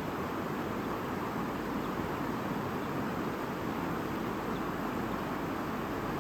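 Shallow stream babbling steadily, an even rush of flowing water.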